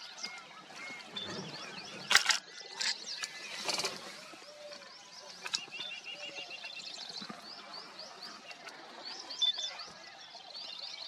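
Forest birds chirping in rapid repeated notes, with sharp camera-shutter clicks about two seconds in, a few more over the next couple of seconds, and one more near the middle.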